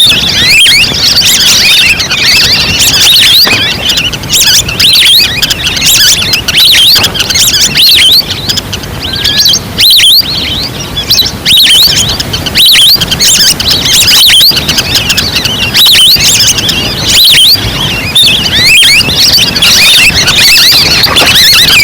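Recorded lure call of wild ducks: a loud, unbroken chorus of many short, high whistled calls from a flock, of the kind played to draw waterfowl in.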